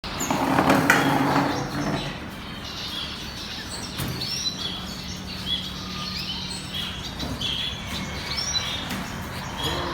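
Many small caged birds chirping over one another in short, high calls, with a louder, lower sound in the first two seconds.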